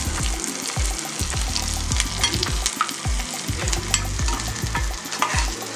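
Spatula stirring and scraping onions, green chilies and curry leaves frying in hot oil in a non-stick saucepan. The tempering sizzles steadily, broken by frequent scrapes and clicks of the spatula on the pan, with a low, regular pulsing underneath.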